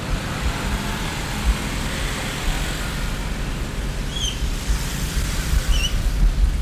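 Street traffic ambience: a steady rumble of road vehicles running past. Two short, high chirps come through about four and six seconds in.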